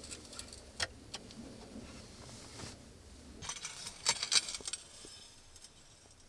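Small hard objects being handled: a few separate clicks about a second in, then a quick run of jingling clinks and rattles about three and a half seconds in.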